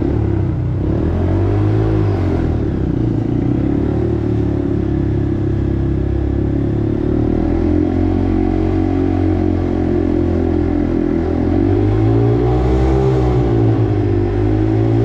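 Honda 125 cc single-cylinder motorcycle engine pulling away and riding, its pitch rising and falling with the throttle: a rev about two seconds in, steady running through the middle, and further rises and falls near the end.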